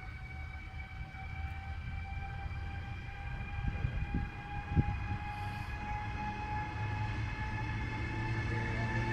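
Double-headed electric freight train with Re 474 (Siemens ES 64 F4) locomotives pulling away and approaching: a low rumble grows steadily louder, under a high electric whine of several tones slowly rising in pitch as it gathers speed, with a few short knocks about halfway through.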